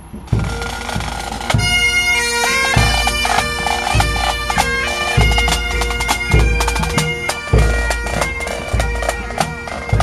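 Pipe band playing: the bagpipe drones sound from the start, the chanters take up the tune about a second and a half in, and a bass drum beats steadily underneath.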